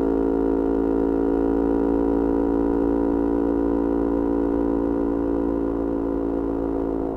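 Yamaha R25 parallel-twin engine, breathing through a Kea Speed aftermarket exhaust, running at steady revs: an even, unchanging drone.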